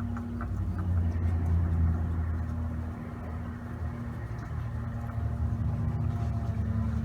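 Low vehicle-like rumble with a steady hum underneath, swelling about a second in and easing off again.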